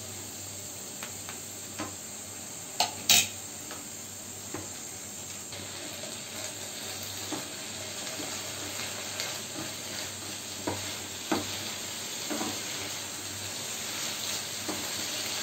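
Mixed vegetables stir-frying in oil in a pan, a steady sizzle, while a wooden spatula stirs them and now and then knocks against the pan, most sharply about three seconds in.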